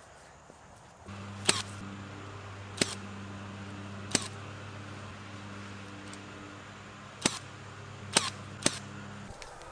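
Six sharp shots of a power staple gun driving staples into wood, spaced a second or more apart, over a steady low machine hum that starts about a second in and stops just before the end.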